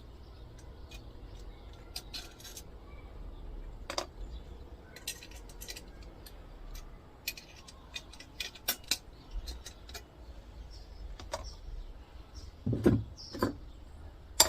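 Small brass parts and hand tools clicking and clinking as the pieces are taken out of an old electricity meter, with scattered sharp clicks and a couple of heavier knocks near the end.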